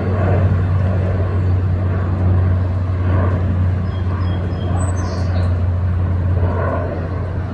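Lockheed EC-130J Commando Solo's turboprop engines and propellers droning, a steady low hum that holds its pitch.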